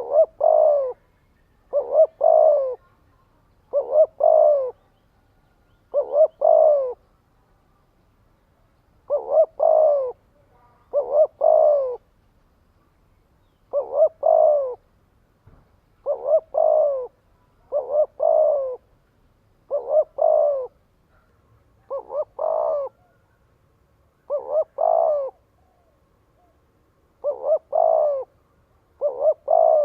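Spotted dove cooing: short phrases of two or three quick coo notes, repeated about every two seconds. It is a decoy bird's call used to stir up and draw in wild doves.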